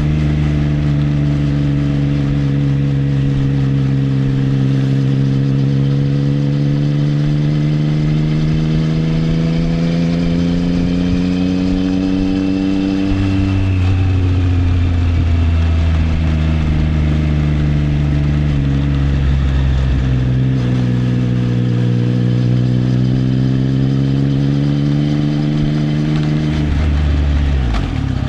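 Triumph Trident 660's three-cylinder engine, through an Arrow exhaust, pulling steadily on the road. Its pitch slowly climbs, drops sharply about halfway through, climbs again, and changes quickly once more near the end.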